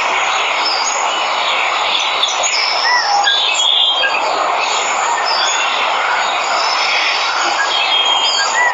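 Jungle waterfall ambience: a steady hiss of falling water with birds chirping and whistling over it, including a short rising-and-falling call about three seconds in and again near the end.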